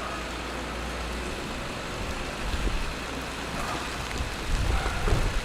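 Steady rain hiss over city street traffic, with a low vehicle rumble that grows louder in the second half.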